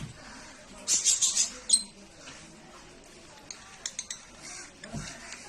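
Lovebirds chirping: a quick flurry of sharp, shrill chirps about a second in, ending on a short squeak, then a few faint scattered chirps.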